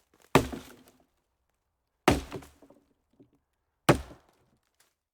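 Three sharp impacts, a little under two seconds apart, each trailing off in a short ringing decay.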